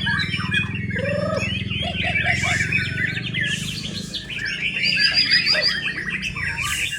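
White-rumped shama singing a fast, varied song of quick rising and falling whistled phrases. A low steady hum runs beneath, weakening about four seconds in.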